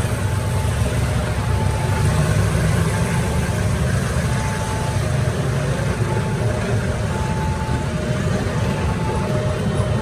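Passenger train coaches rolling past close by, a steady loud rumble of wheels on the rails. A faint two-note tone repeats in the background.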